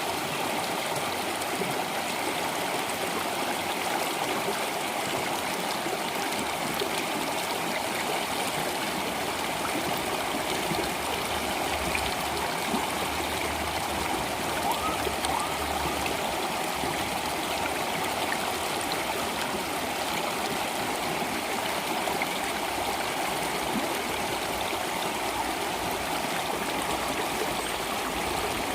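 Water flowing in a stream, a steady rushing and babbling.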